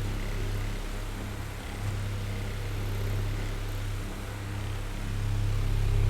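Oscillating electric fan running: a steady motor hum under the rush of air from the blades. The level swells and dips slowly as the fan head turns.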